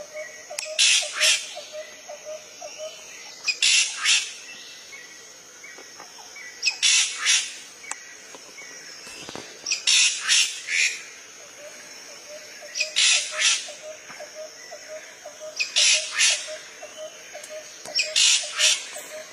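A shrike giving harsh, grating squawk calls, seven short bursts of a few rapid notes each, repeated about every three seconds.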